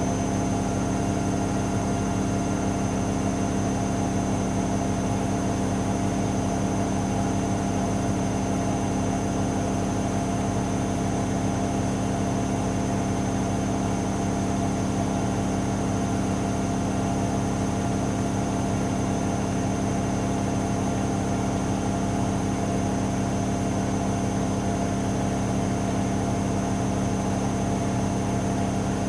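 AEG Lavamat L74810 washing machine running steadily: a constant motor hum with a thin high-pitched whine above it, unchanging throughout.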